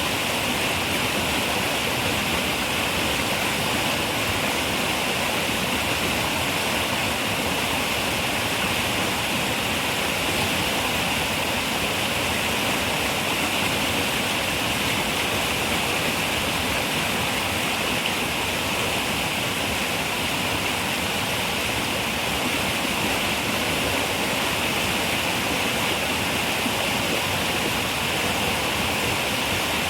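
River water running over rocks: a steady, unbroken rushing hiss that stays the same throughout.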